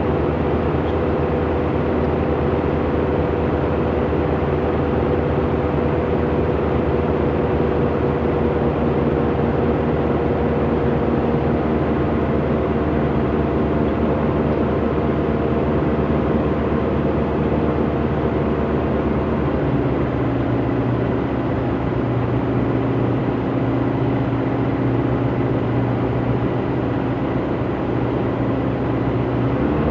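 A light aircraft's piston engine runs steadily, heard from inside the cabin over a constant rush of noise. About two-thirds of the way through, its pitch drops to a lower steady note, then rises again right at the end.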